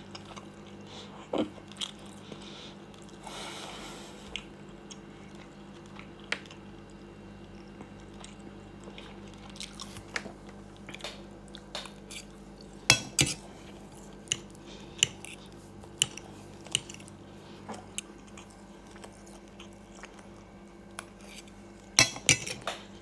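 A person eating: chewing, with scattered short clicks and knocks of cutlery and dishes, the loudest a little past halfway and near the end, over a faint steady hum.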